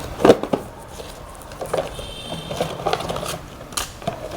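Light clicks, taps and scrapes of hands handling the intake hoses and air-box parts of a motorcycle, with a sharp click near the start and a brief squeak about two seconds in.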